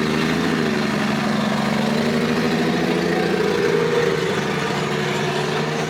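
A car engine idling with a steady low exhaust note that wavers slightly.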